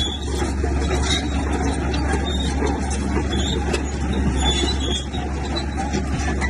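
Komatsu bulldozer's diesel engine running steadily under load, a constant low drone with a heavy mechanical clatter over it.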